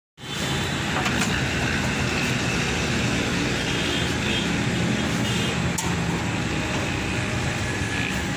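Steady mechanical running noise: a constant low hum under an even hiss, with a couple of faint ticks.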